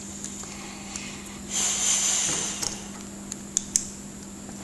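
Small plastic LEGO minifigure pieces being handled: a brief breathy hiss lasting about a second, then two sharp clicks close together, over a steady electrical hum.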